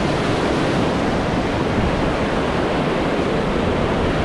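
Steady rush of white water as the raft runs through river rapids.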